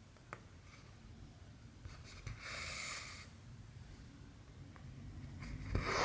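Cotton embroidery thread drawn through cross-stitch fabric: two rasping swishes, the second louder near the end, with a few faint ticks between.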